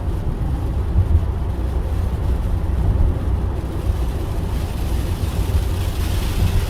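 Low, steady rumble inside a car cabin during a heavy thunderstorm, with a hiss that grows from about four seconds in.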